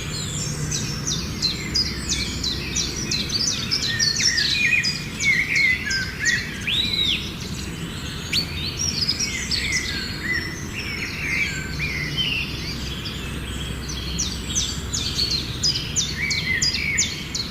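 Many birds chirping and calling at once, a dense chorus of short overlapping chirps and whistles with one clear arched note about seven seconds in.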